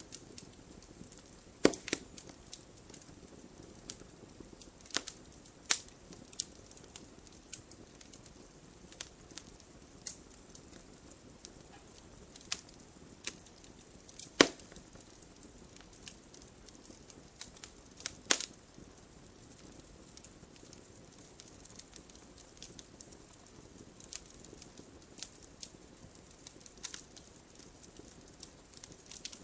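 Wood fire crackling: irregular sharp pops and snaps over a soft low hiss, with a few louder pops standing out.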